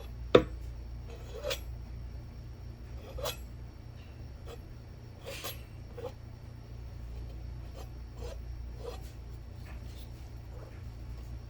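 A single sharp knock about half a second in, then scattered light taps and clicks, over a steady low hum.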